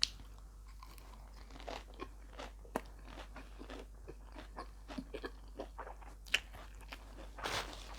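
Close-miked mouth sounds of someone eating larb (spicy minced beef salad) with rice: chewing, crunching, with sharp wet clicks and smacks. The loudest clicks come right at the start, about three seconds in and about six seconds in, and a longer, noisier crunch comes near the end.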